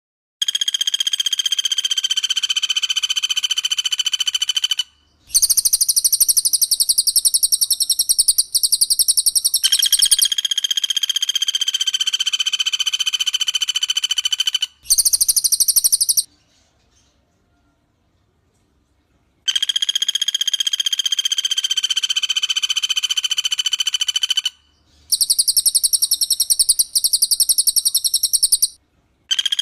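Cililin and pelatuk bawang birdsong in dense rapid-fire bouts: very fast rattling trills layered over steady, piercing whistled notes. The bouts run several seconds each, with short breaks between them and a silent pause of about three seconds near the middle.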